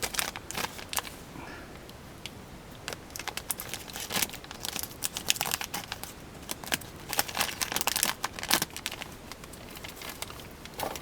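Plastic packaging of a brake caliper repair kit crinkling and crackling as it is handled and opened, in irregular clusters with short lulls.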